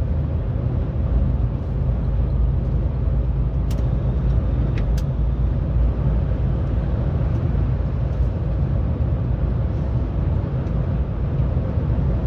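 Truck on the move: steady low engine and road drone, with a couple of faint clicks.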